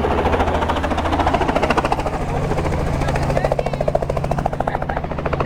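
Helicopter running, its rotor giving a fast, even chop over a steady low hum.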